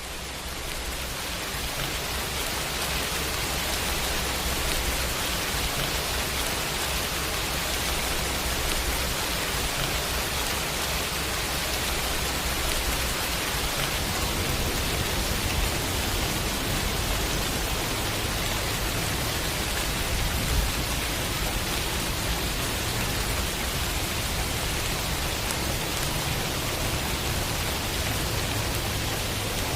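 Heavy rain falling steadily as a dense, even hiss, swelling in over the first couple of seconds.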